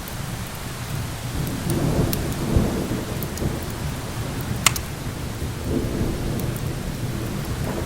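Steady rain with rolling thunder that swells about two seconds in and again near six seconds. Sharp crackles of a wood fire run over it, the loudest a single snap just under five seconds in.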